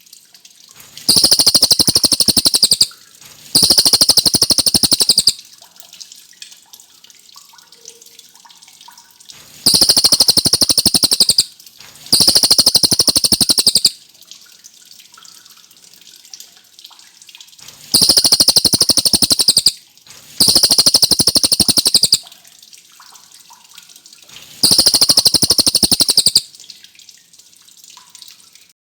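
Cililin songbird singing long, rapid, high-pitched trills of about two seconds each, mostly in pairs with short pauses between, seven trills in all.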